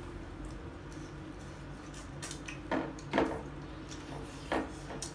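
Eating noises at a meal of dhido: a few short, sharp smacks and clinks about two to five seconds in, over a steady low hum.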